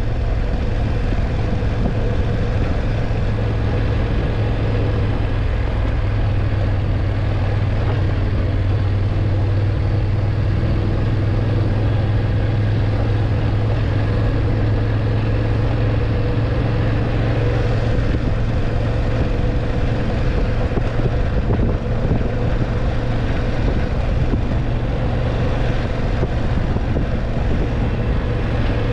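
BMW F850GS motorcycle's parallel-twin engine running at a steady pace while riding, with a constant low drone and a hiss of wind and road noise over it.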